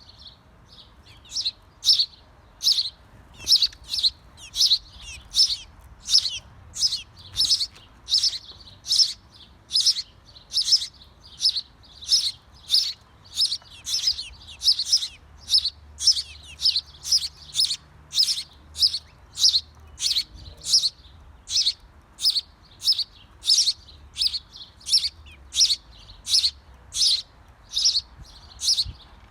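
A small bird chirping the same short, high call over and over, a little more than once a second, in an even, steady rhythm.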